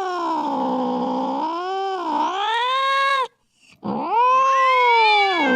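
Domestic cat yowling, an angry cat's threatening caterwaul. One long wavering yowl dips low and rises again, then breaks off about three seconds in. After a half-second gap a second yowl starts, rising and then sliding down low.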